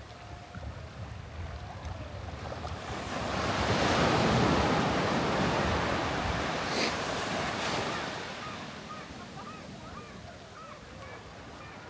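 A sea wave breaking and washing up the sand: a rush of surf that builds about three seconds in, is loudest a second or two later, then fades away. Wind buffets the microphone throughout.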